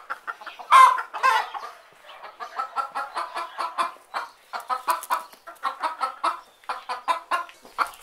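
Chickens clucking. A couple of louder calls come in the first second and a half, then a steady run of short clucks, about three or four a second.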